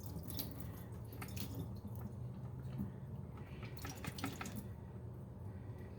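Water dripping irregularly from the Yeedi Vac 2 Pro robot vacuum's mop water reservoir as its leftover water is drained out.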